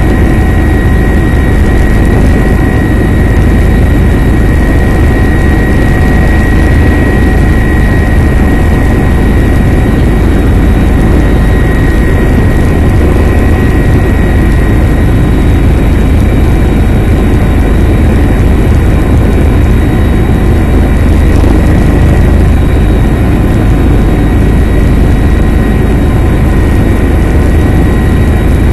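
Helicopter in flight, heard from inside the cabin: a loud, steady rotor and turbine noise, heaviest at the bottom of the range, with a steady high whine on top.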